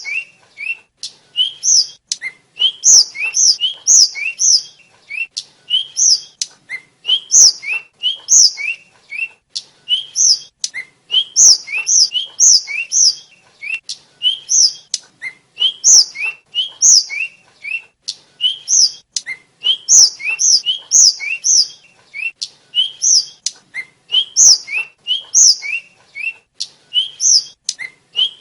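Little pied flycatcher (tledekan/sulingan) singing a continuous run of short, high chirping notes in quick clusters of two to four, about one cluster a second.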